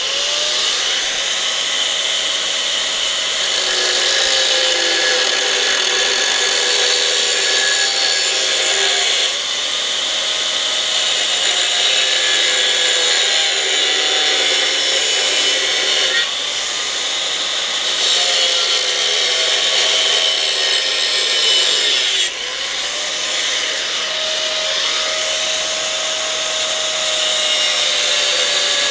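Electric power tool cutting steel, its motor whine sagging in pitch as it bites, over a harsh high hiss. The cut eases briefly about 9, 16 and 22 seconds in.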